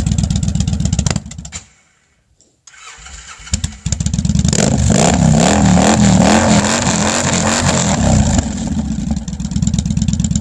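2009 Victory Jackpot's 106-cubic-inch V-twin running through its Ness slash-cut pipes. It cuts off about a second in, is cranked on the starter and catches about a second later. It is then revved several times, rising and falling, before settling back to an idle.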